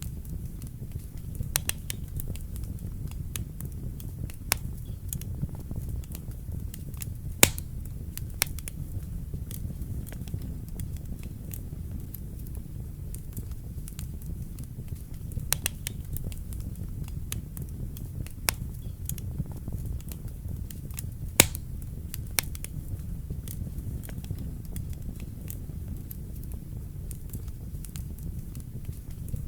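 Wood fire burning in a fireplace: a steady low rumble of the flames with frequent irregular crackles and pops, two sharper pops standing out, one about a third of the way in and one about two-thirds in.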